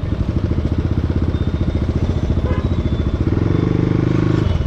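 CX250SE dirt bike engine running under way with a fast, even firing beat. It pulls harder for about a second near the end.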